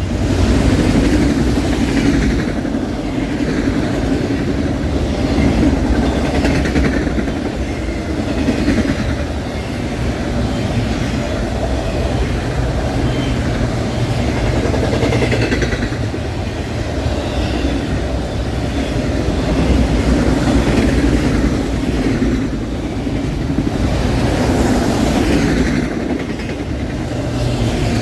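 Norfolk Southern autorack freight train passing at track speed: the diesel locomotive's engine rumble and the steel wheels running on the rails, loud and steady throughout.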